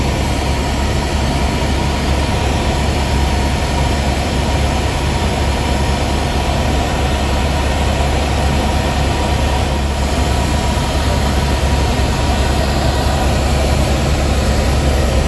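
Helicopter turbine engine and rotor noise heard from inside the cabin, loud and steady, with a constant low drone and a steady whine.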